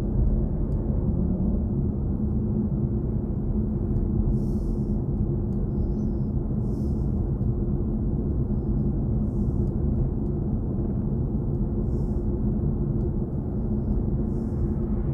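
Steady low road and tyre rumble inside the cabin of a moving BMW i4 M50 electric car, with no engine note.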